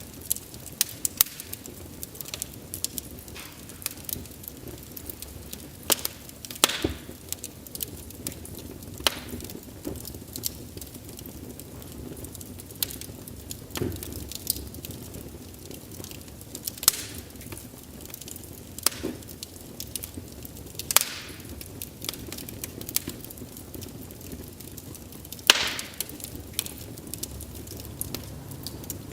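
Wood fire burning, with a low steady flutter of flames and irregular sharp crackles and pops from the burning logs, a few of them loud.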